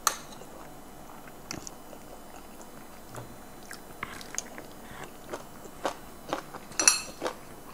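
Close-up chewing and crunching of a mouthful of snake bean and tomato salad, with scattered light clicks and a short cluster of clinks near the end from a fork and shells against dishes.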